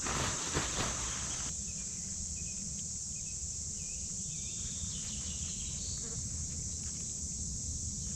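A few crunching footsteps, then outdoor ambience: a steady high hiss with a low rumble and a few short, faint bird chirps.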